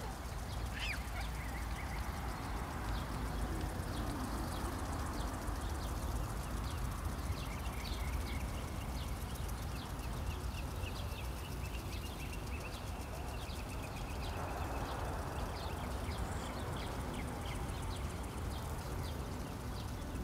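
Small birds chirping in quick, short calls over a steady low outdoor rumble.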